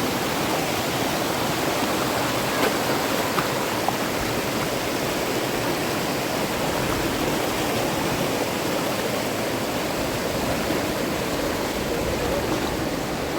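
Fast river water rushing steadily, with a few faint small splashes or knocks in the first few seconds.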